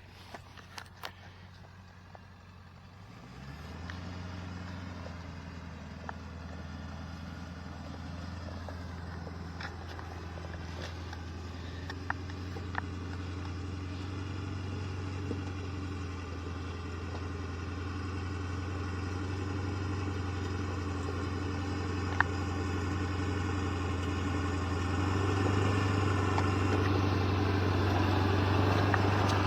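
A pickup truck's V8 engine comes in about three seconds in and then runs at a steady pitch under load on a steep, rocky climb. It grows gradually louder, with a further rise near the end, and a few sharp clicks and knocks sound over it.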